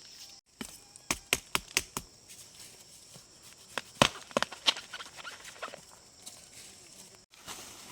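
A quick run of about five sharp knocks, then a second cluster of knocks and cracks a couple of seconds later.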